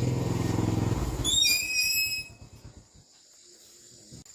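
A low, steady engine hum that dies away about two seconds in, overlapped near the middle by a brief cluster of high chirping tones.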